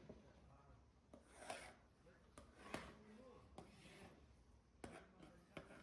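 Faint scratching and rubbing on wood, broken by a handful of light taps at uneven intervals: quiet hand work at the bench.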